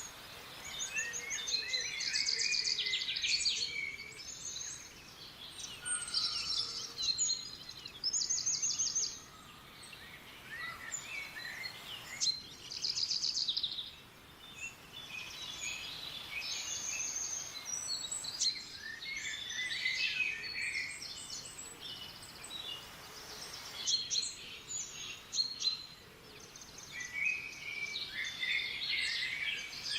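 Several wild songbirds singing and calling at once: fast trills and short chirps overlapping continuously, over a faint steady hiss of background noise.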